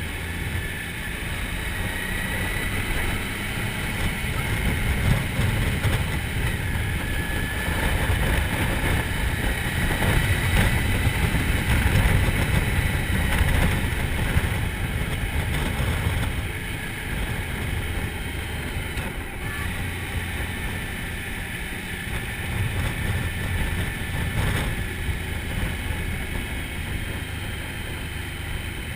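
Motorcycle riding at road speed: engine drone under heavy wind rumble on the microphone, swelling louder around the middle.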